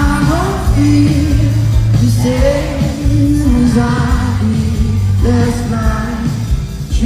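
Live pop concert: a male vocalist singing held, sliding notes over a band with a steady bass line, recorded from the audience in an arena.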